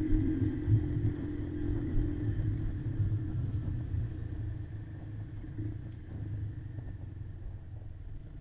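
Quad bike engine running steadily under a heavy low rumble from the ride, with a few knocks in the first second; the engine note eases off a little partway through.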